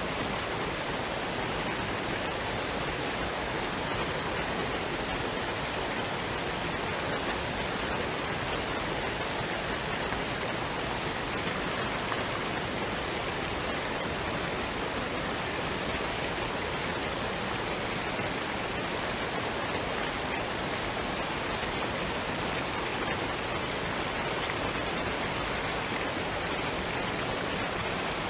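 Waterfall and stream running water, a steady, even rushing with no breaks or changes.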